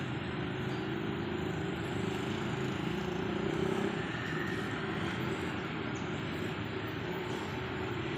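Steady low engine rumble, a little louder about halfway through.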